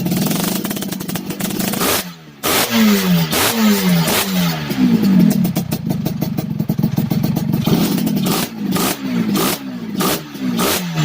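Motorcycle engine blipped repeatedly through an aftermarket racing exhaust (knalpot), each quick rev falling back in pitch, with a brief gap about two seconds in.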